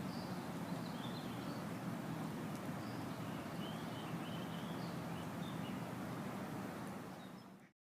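Steady outdoor rushing noise with short, high bird chirps scattered through it; it fades and cuts off near the end.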